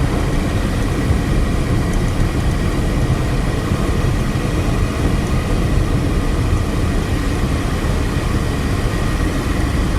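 Steady road and engine noise of a car being driven, heard from inside the cabin as a constant low rumble, with a faint steady high tone underneath.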